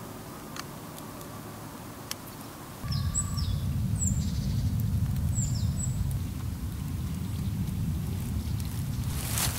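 A low steady rumble comes in about three seconds in, with a small bird chirping several short, high, falling notes over it, and a brief burst of noise near the end.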